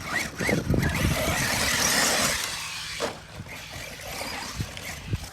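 Arma Mojave 6S RC truck's brushless electric motor whining up in short revs as the truck drives over dirt, with tyre and dirt noise. It is loudest for the first three seconds, then drops away.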